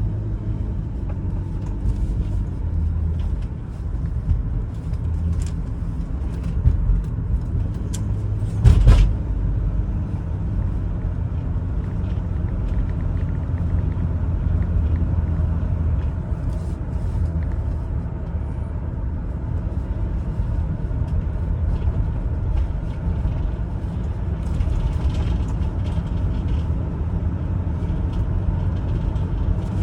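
Chevrolet Venture minivan's 3400 V6 engine and tyres running steadily on the road, a continuous low rumble with light rattles. A single sharp thump about nine seconds in.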